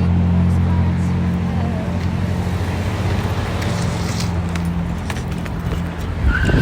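A vehicle's engine running with a steady low hum that slowly fades, with a brief louder knock near the end.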